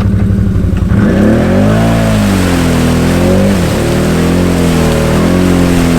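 Can-Am Outlander ATV's V-twin engine revving up and down repeatedly after a steady first second, as the rider works the throttle to get out of a mud rut where the machine is stuck.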